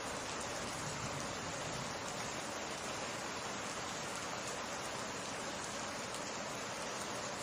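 Steady summer rain falling in an even, unbroken hiss.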